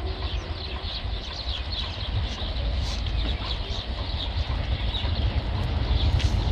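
Birds chirping over a low rumble from an approaching train, which grows slowly louder as it nears.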